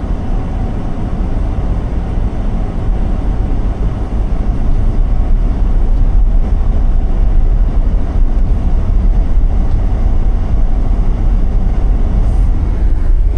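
Road noise of a car being driven: a steady low rumble of tyres and engine, growing a little louder about five seconds in.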